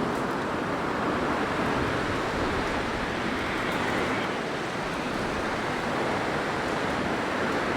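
Blizzard wind blowing steadily, a dense rushing noise that swells and eases gently.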